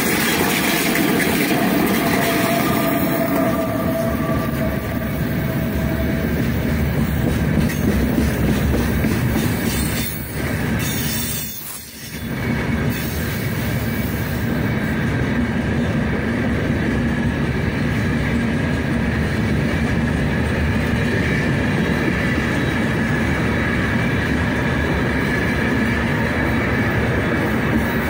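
Long freight train of gondola wagons rolling past close by: a steady rumble and rattle of wheels on rail. A short drop in loudness comes about eleven seconds in.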